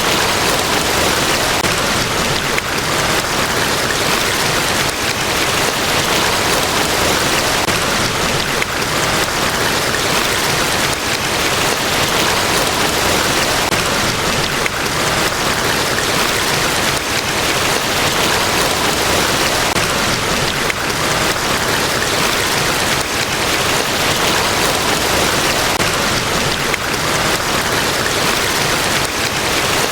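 Large waterfall pouring: a steady, unbroken rush of falling water.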